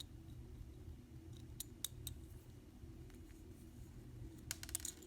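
Faint, sharp clicks of small tools and tiny screws being handled on a workbench: a few single clicks in the middle and a quick run of clicks near the end, over a low steady hum.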